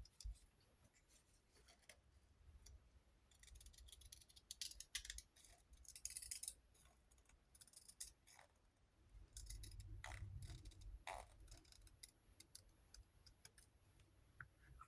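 Faint snips and rustles of scissors cutting paper, in scattered short bursts.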